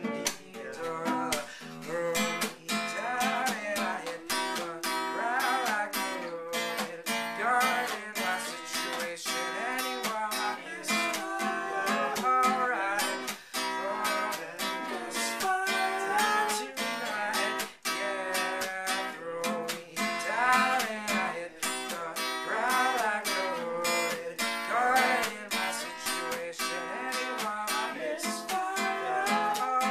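Acoustic guitar strummed and picked continuously, a song's passage without clear words.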